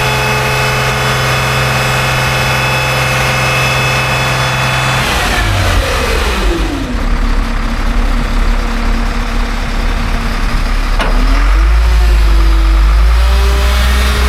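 Diesel engine of a 1997 Freightliner FL70 dump truck held at raised revs, then falling back to idle about five to seven seconds in. Near the end there is a click, and the engine note climbs unevenly and gets louder and deeper.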